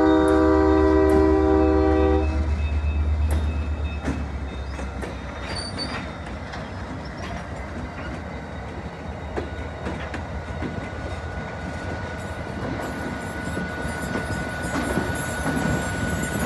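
Diesel locomotive air horn sounding a steady multi-note chord over the deep rumble of the engine, cutting off about two seconds in. The passing train's wheels then clatter and click over the rails, and a thin steady wheel squeal sets in about ten seconds in.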